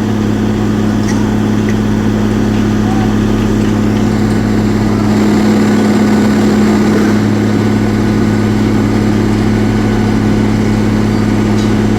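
Concrete pump running steadily with a loud, even hum.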